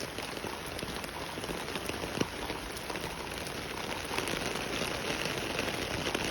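Rain falling steadily, a dense even hiss with many separate drop ticks, one louder tick about two seconds in.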